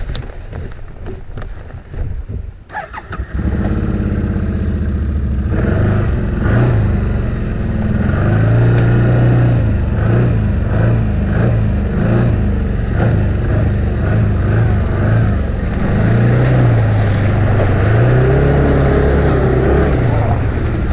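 ATV engine revving hard, its pitch rising and falling over and over as it labours through deep mud or water. It comes in abruptly about three seconds in, after a stretch of quieter scuffing noise.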